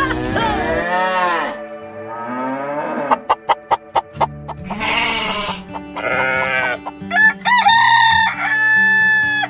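Intro montage of sound effects over background music: a long call at the start that resembles a rooster crowing, a rising glide, a quick run of sharp clicks, a noisy burst, then more calls and a held whistle-like tone.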